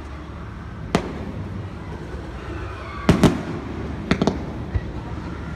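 Fireworks shells bursting with sharp bangs: one about a second in, a pair around three seconds, then a quick run of three about four seconds in, over a steady low rumble.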